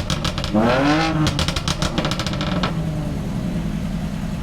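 A car engine is revved once, its pitch rising and falling. A rapid run of sharp crackles follows as the revs drop, and then it settles to a steady idle.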